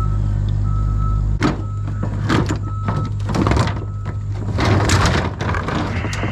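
Heavy machinery engine running steadily with a reversing alarm beeping, then from about a second and a half in, irregular loud cracking and crunching of wood.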